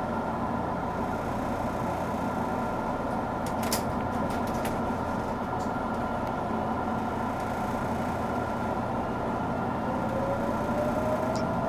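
JR Kyushu 883 series EMU heard from inside the carriage: a steady hum of onboard electrical equipment with a few sharp clicks about four seconds in, then, near the end, a slowly rising tone from the Toshiba GTO-VVVF inverter and traction motors as the train starts to pull.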